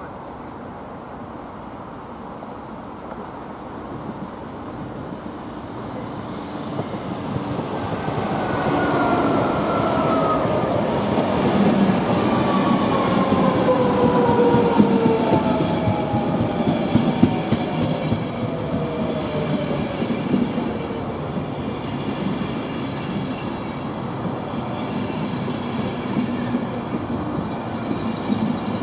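A train coming in and running past, growing louder over several seconds to a loud rumble of wheels on the track, with a whine that falls slowly in pitch.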